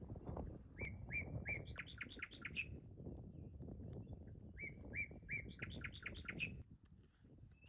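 A songbird sings the same short phrase twice. Each phrase is a few even notes followed by a quicker run of higher notes. Under it is a low rumble, like wind on the microphone, that dies down near the end.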